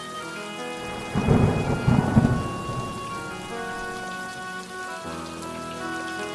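A thunderclap about a second in, its low rumble lasting about two seconds, over steady rain. Soft background music of held tones runs underneath.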